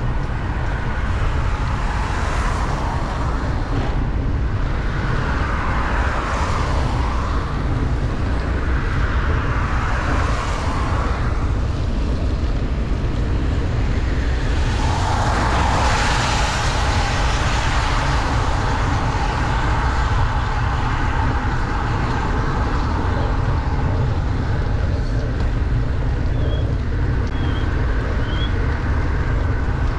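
Wind rumbling steadily on the microphone of a bicycle riding downhill in heavy rain, with several vehicles swishing past on the wet road; the loudest passes about a quarter and halfway through.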